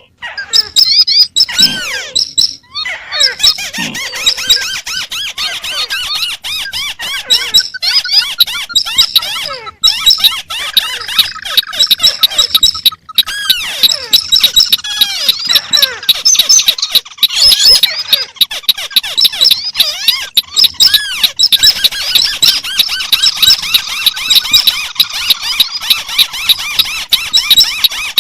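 Several crake calls layered on top of one another, including the white-browed crake: a dense, continuous mesh of high squeaky chirps and trills that do not keep time with each other, peppered with sharp clicks.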